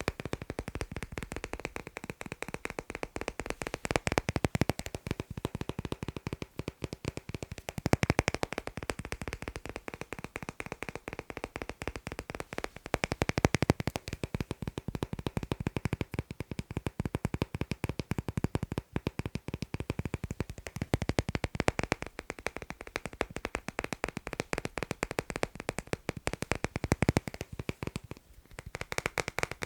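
Fast, continuous tapping on magnets, many taps a second, with brief louder flurries every few seconds and a short pause near the end.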